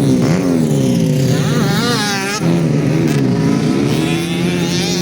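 Motocross bike engines revving, the pitch climbing and falling repeatedly as the throttle is worked; about halfway through the sound changes abruptly, and near the end one engine holds a steadier pitch.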